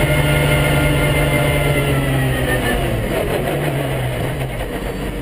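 Pagani Zonda R's 6.0-litre Mercedes-AMG V12 running at low revs. Its pitch eases down a little about two seconds in, and the engine note then fades away toward the end.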